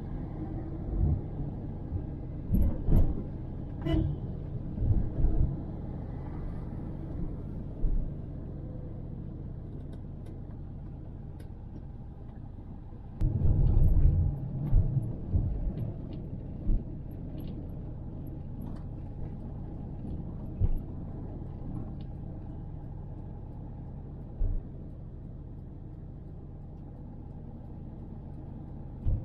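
Low road rumble of a car in motion, heard from inside, with scattered bumps and a louder, rougher stretch about halfway through.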